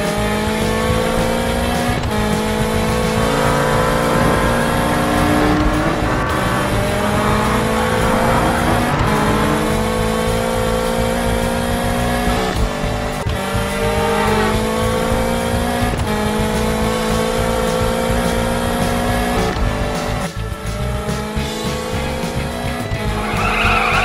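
Cartoon race car engine sound effect, revving in repeated slowly rising glides, over background music.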